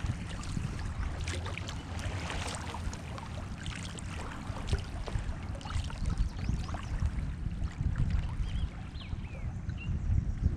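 Water splashing and dripping around a kayak as it is paddled through current, many short irregular splashes, over a steady low rumble of wind on the microphone.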